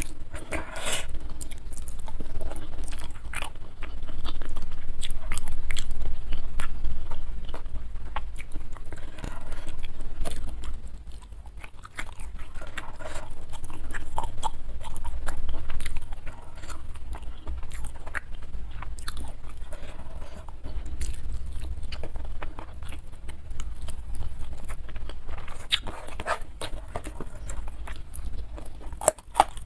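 Close-miked chewing and eating sounds of a person eating rice and boiled fish by hand, with many small irregular clicks and crackles of mouth and fingers.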